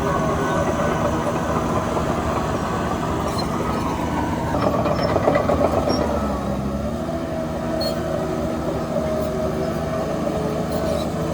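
Heavy earthmoving machinery running: a large diesel engine runs steadily, swells briefly about halfway through, and its pitch dips and recovers soon after, with faint scattered clanks.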